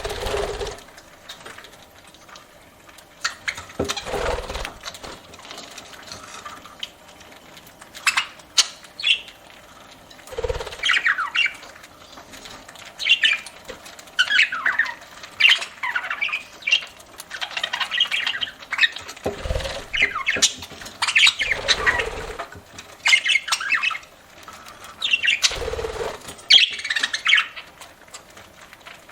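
Pet budgerigars chattering in short, rapid chirps and squawks, with several brief wing flutters and a few sharp clicks.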